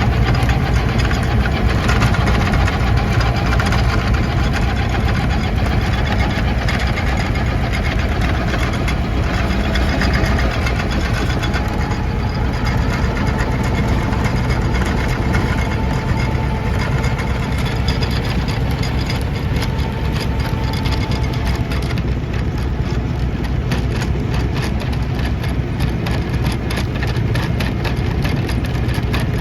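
Lovol 504 tractor's diesel engine running steadily, with a fast even firing beat.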